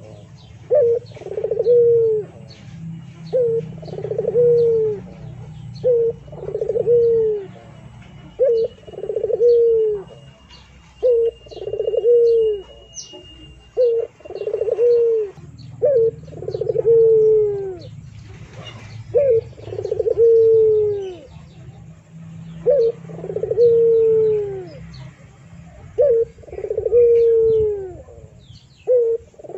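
A dove cooing over and over in a steady rhythm: a short note then a longer falling coo, about every two seconds, with small birds chirping faintly behind.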